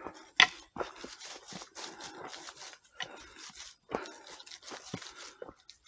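Footsteps crunching on a stony, gravelly forest trail, a step about every half second, with one sharper crunch about half a second in.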